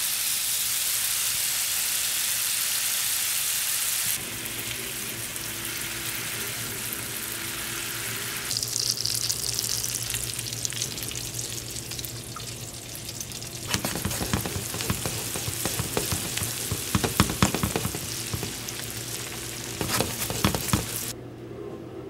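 Butter sizzling in a frying pan, then a salmon fillet and small onions sautéing in mango butter, a steady frying hiss with many sharp pops in the later part. The sizzling drops away about a second before the end.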